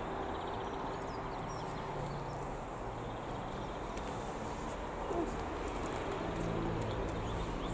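A train approaching in the distance: a low, steady drone fades in and grows over a steady background rush, with faint bird chirps.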